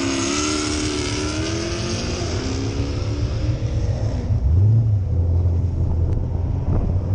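Performance cars accelerating hard one after another, their engine notes rising through the revs with a high hiss over the top. About four and a half seconds in, a deeper engine note comes in and holds steady.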